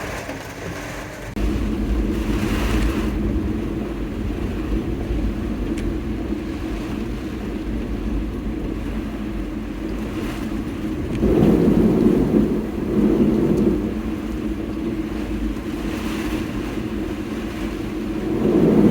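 A vehicle driving: a steady low rumble that starts about a second in and swells louder twice, once in the middle and once at the end.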